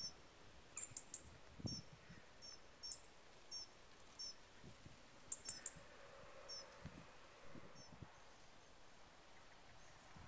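Faint high chirps of a small bird: short double notes repeated about once a second. A few soft low thumps come in between.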